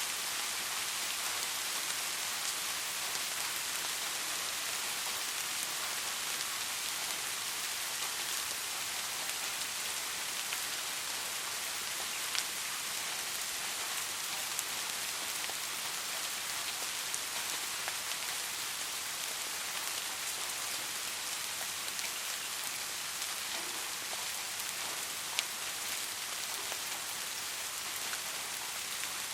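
Steady soft rain falling, an even hiss with scattered individual drops ticking, a couple of them a little louder.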